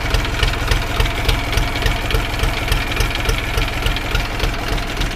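Three-cylinder diesel engine of a mini tractor idling steadily with a fast, even clatter, running evenly with its valves freshly adjusted.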